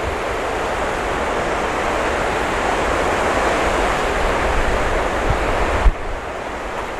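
Typhoon-driven surf, heavy waves breaking in a steady rush that swells over several seconds, with wind buffeting the microphone in low rumbles. The noise drops off suddenly about six seconds in.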